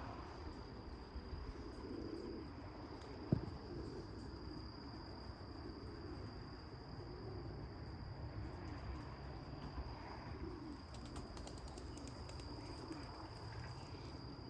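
Pigeons cooing softly at intervals over a steady high-pitched insect-like trill, with one sharp click about three seconds in.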